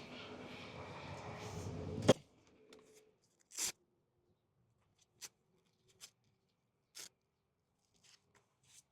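Electric random-orbital sander with its dust vacuum running steadily on a bondo-filled panel, switched off about two seconds in with a click and a brief wind-down. A few faint knocks and taps follow.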